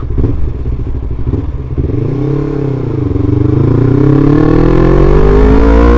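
Motorcycle engine revving up and back down about two seconds in, then accelerating with a steadily rising pitch toward the end, over low wind rumble on the microphone.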